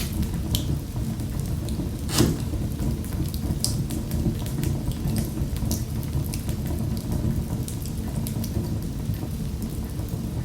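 Wood fire crackling in a fireplace: a steady low rumble of the flames with scattered sharp pops and snaps, one louder pop about two seconds in.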